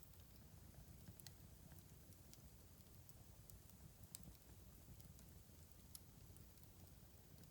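Wood fire crackling faintly: scattered sharp pops and snaps, the loudest about four seconds in, over a low steady rumble.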